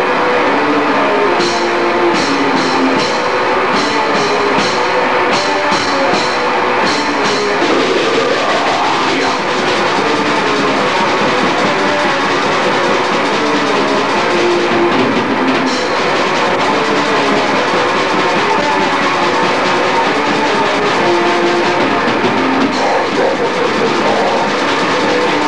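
Grindcore recording: heavily distorted guitars and a drum kit in a loud, dense wall of sound, with a run of evenly spaced drum hits in the first several seconds and a note sliding upward about eight seconds in.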